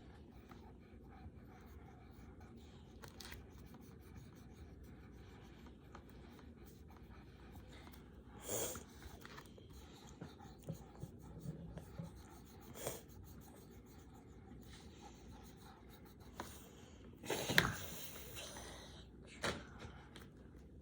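Coloured pencils scratching softly on paper as flowers are drawn, broken by a few short louder sounds, the loudest near the end.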